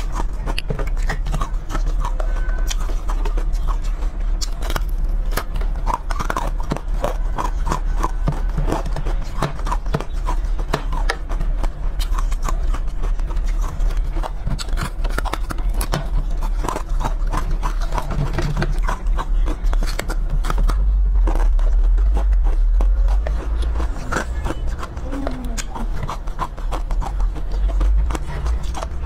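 Close-miked chewing and crunching of a frozen chocolate bar: a dense, continuous run of crisp cracks and crunches from the mouth, over a steady low rumble that grows heavier in the last third.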